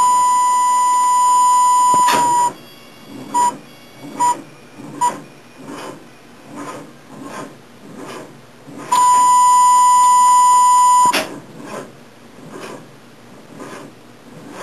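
Portable jump-starter box sounding its warning beep: a long steady tone of about two seconds, three short beeps, then another long tone about nine seconds in. The pack is nearly drained and too weak to crank the engine.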